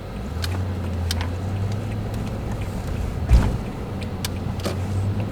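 A motor vehicle driving, with a steady low engine and road rumble, a few sharp clicks and a louder thump about three seconds in.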